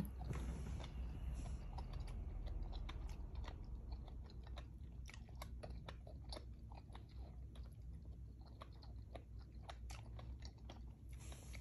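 Close-up chewing of soft young coconut meat: many small, irregular wet mouth clicks and smacks.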